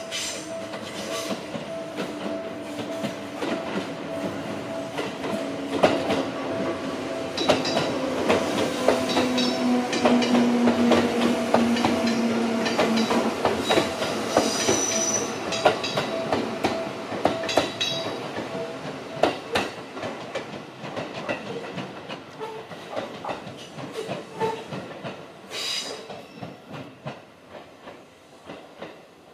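Seibu 4000 series electric train running slowly past: a motor hum that drops in pitch over the first dozen seconds, wheels clacking over rail joints as the cars go by, and a brief high wheel squeal midway. It then fades as the train moves off.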